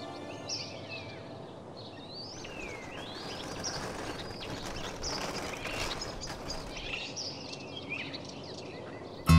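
Birds chirping over a steady outdoor background hiss. A strummed guitar comes in just at the end.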